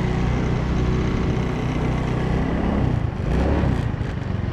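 Truck engine running steadily, with a brief rise in engine sound about three seconds in.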